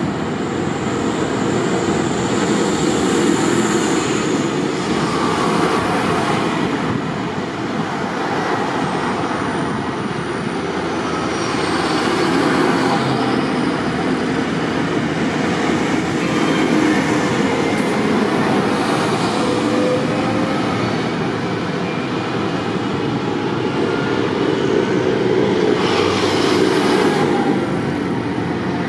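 Tractor engines running, a loud continuous rumble that swells and eases slightly but never stops.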